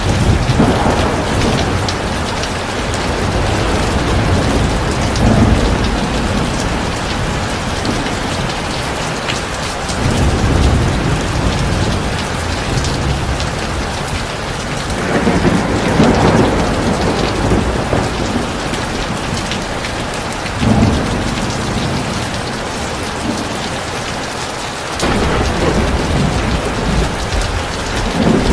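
Heavy rain falling steadily, with low rumbles of thunder that swell and fade several times.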